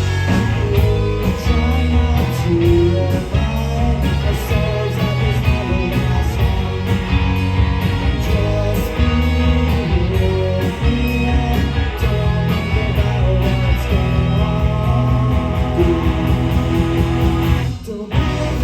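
Live rock band playing: electric guitar over bass and drums with a steady beat. The band stops briefly near the end.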